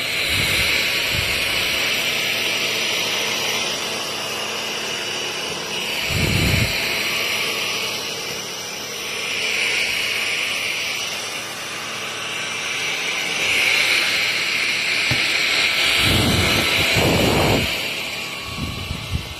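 Cordless stick vacuum running, a steady high motor whine and rush of air that swells and eases as it is pushed around. A few dull low bumps come about six seconds in and again near the end.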